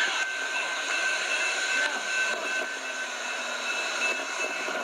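Railroad crossing warning bell ringing on, a steady high tone over a haze of outdoor noise.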